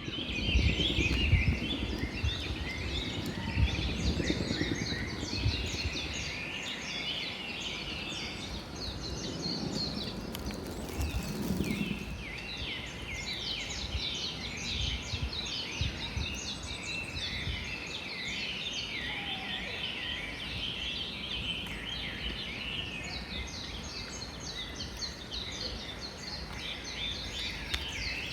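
Woodland ambience: many small birds singing and chirping at once in a dense, continuous chorus. A low rumble sits under it in the first few seconds and again briefly about halfway through.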